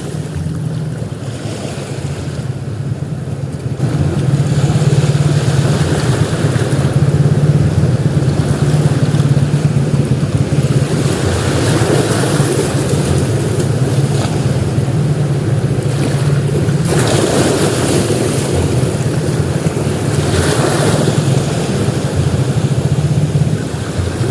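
Sea waves breaking and washing up on a beach, the surf swelling louder every few seconds over a steady low rumble.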